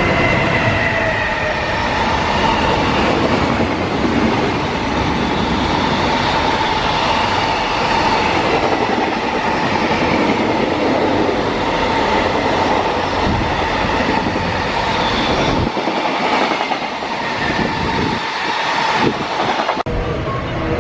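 Freight train running past on the rails: a steady loud rumble and wheel clatter with a thin steady tone over it. About a second before the end the sound breaks off abruptly and picks up again.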